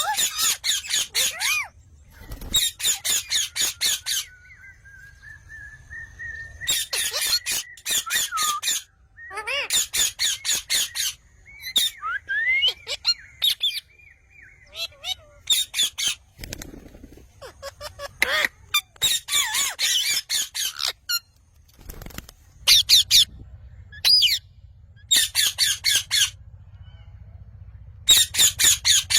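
Parrot squawking in repeated runs of rapid, high calls, each run lasting a second or two with short pauses between. About five seconds in, a long drawn-out whistled note carries on for a few seconds.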